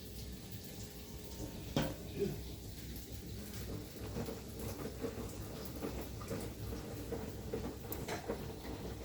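Sharp washing machine running with water sloshing in the tub over a steady low motor hum, with one knock about two seconds in.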